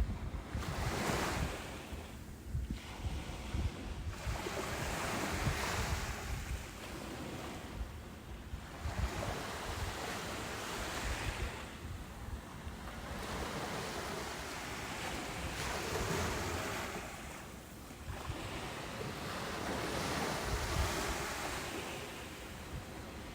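Ocean surf breaking and washing up a beach, swelling and ebbing every few seconds, with a low rumble of wind on the microphone.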